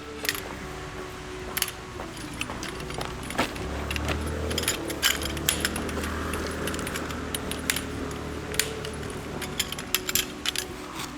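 Irregular sharp metallic clicks and clinks, a dozen or more, with a low rumble underneath through the middle.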